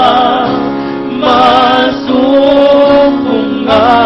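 Sung worship music: female and male voices holding long, slow notes with vibrato, moving to a new note every second or so.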